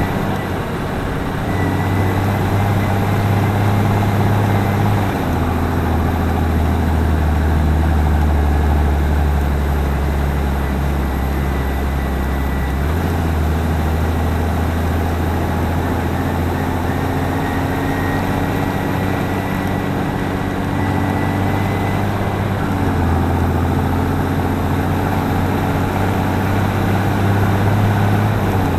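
Claas Axion 820 tractor's six-cylinder diesel engine running steadily, its pitch stepping up or down several times as engine speed changes. A faint high whine sits over it.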